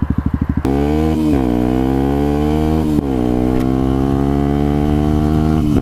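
Yamaha WR125 single-cylinder four-stroke motorcycle engine chugging at low revs, then pulling away under throttle. Its note climbs, drops at upshifts about a second in and about three seconds in, and climbs again, with another shift near the end.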